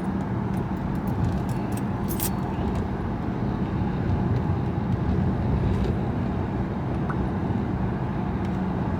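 Steady car hum heard from inside the cabin: an even low rumble with a constant low drone throughout.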